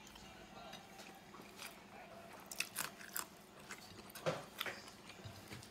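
A person chewing and biting food close to the microphone, with wet mouth sounds and a run of sharper crunches and smacks in the middle.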